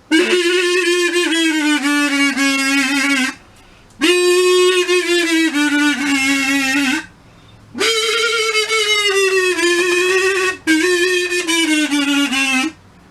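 A solo melody on a reedy wind instrument: three long phrases of held, wavering notes, with short breaks between them.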